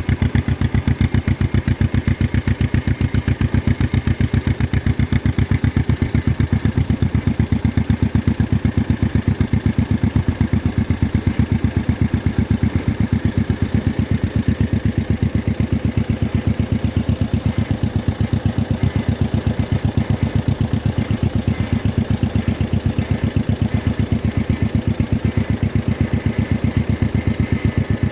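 1953 John Deere 40's two-cylinder engine running at a steady speed, a loud, even beat of exhaust pulses that does not change.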